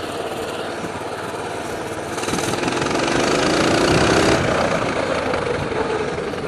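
Coleman BT200X mini bike's small single-cylinder engine running steadily, then revving up about two seconds in with a rising pitch and easing back off near the end.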